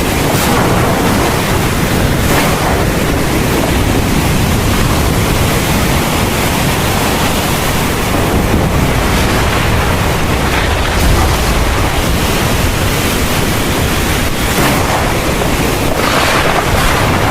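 Heavy thunderstorm rain pouring steadily, a dense hiss with a low rumble underneath and a few brief swells in intensity.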